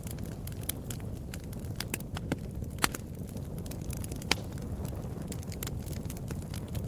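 Wood fire in a fireplace crackling, with irregular sharp pops over a steady low rumble of the flames; two louder pops come about three and four seconds in.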